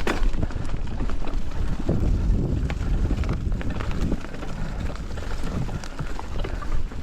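Wind buffeting the microphone on a moving mountain bike, over a low tyre rumble, with scattered clicks and rattles from the bike on the trail.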